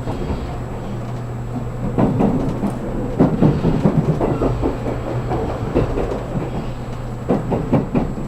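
Inside a JR Kyushu 783 series limited express car running at speed: a steady low hum of the running train, with irregular clattering knocks of the wheels over the track that grow heavier from about two seconds in.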